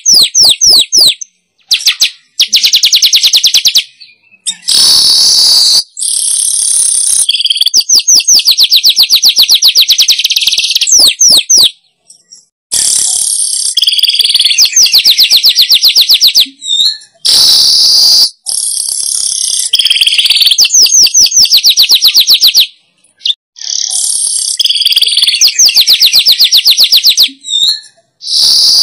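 Manyar weaver birds singing a lure call: repeated high-pitched phrases of rapid ticking chatter that give way to wheezy, hissing buzzes, with short pauses between phrases.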